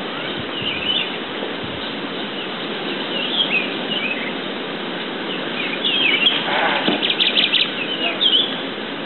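Small forest birds giving short high chirps and calls at intervals, with a rapid trill about seven seconds in, over a steady background hiss.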